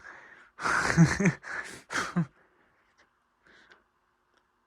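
A man's voice making a few short sounds that the recogniser doesn't turn into words, then near quiet with faint room tone for the second half.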